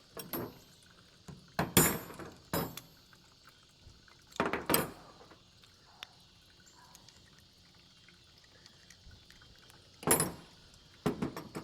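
Scattered sharp clicks and clanks of hand work taking the float bowl off a Honda GX200 carburetor, about six in all with long pauses between, over a faint steady high insect chirr.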